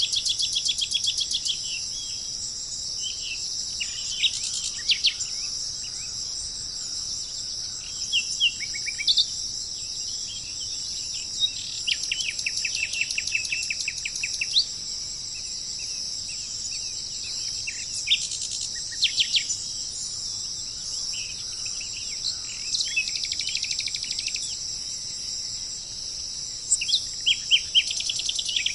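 Wild birds calling in short runs of quick chirps and trills every few seconds, over a steady high-pitched insect chorus.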